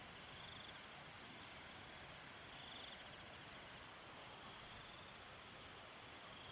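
Insects chirping faintly over quiet rural ambience: short trills come and go, and a steady high-pitched buzz starts a few seconds in and holds.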